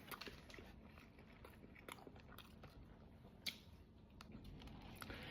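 Faint chewing with scattered small mouth clicks and crunches, one sharper click about three and a half seconds in.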